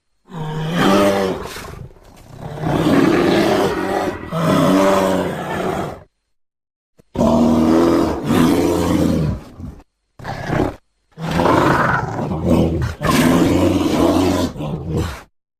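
Creature sound effect for a Megatherium, the extinct giant ground sloth: a run of about seven pitched animal calls, each one to two seconds long, several sliding down in pitch, with brief silent gaps between some of them.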